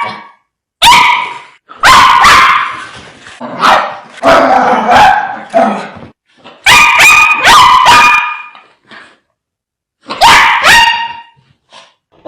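Dogs barking aggressively in about five loud volleys of quick barks, with short pauses between them.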